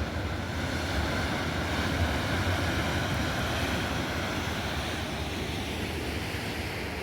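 Ocean surf rushing steadily, with wind buffeting the microphone as a low rumble.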